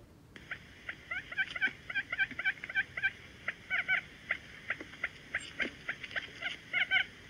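Wild quail calling: a fast run of short, repeated chirping notes, several a second, starting a moment in after a brief gap.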